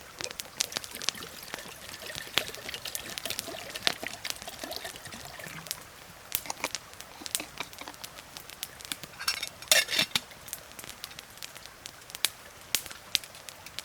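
Liquid pouring for a few seconds, the pitch rising slightly as it goes, amid scattered sharp crackles and clicks. A louder burst of crackle comes about ten seconds in.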